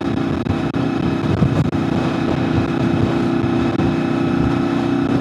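Honda VFR800FI Interceptor's V4 engine running at a steady speed under way, with a constant drone and no change in revs, over a rushing low noise of wind and road.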